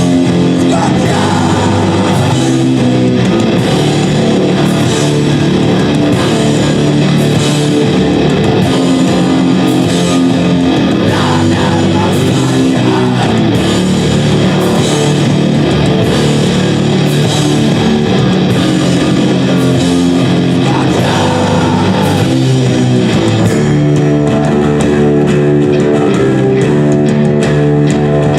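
A live rock band playing loud, with electric guitars and a steady drum beat.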